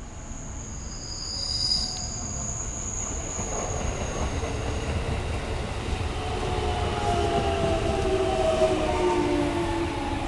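Electric commuter train running through the station, with a high squeal in the first few seconds, then its motor whine falling slowly in pitch as it slows, over a rumble that grows louder.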